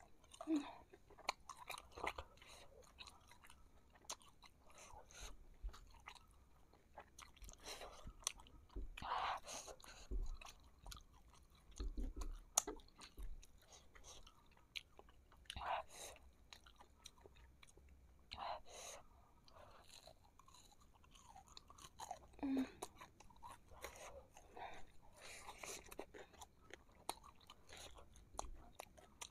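Close-up chewing of fried meatballs (bakso goreng) in a thick sauce: irregular wet smacks, clicks and soft crunches of a mouth eating.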